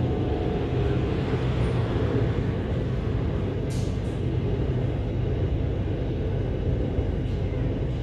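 Electric commuter train running, a steady low rumble with a hum, with two short faint high hisses about four seconds in.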